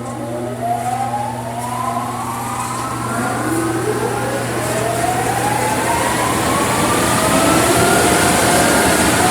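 Car wash dryer blowers spinning up one after another: whines climbing steadily in pitch over a growing rush of air. A steady low hum under them stops about five seconds in.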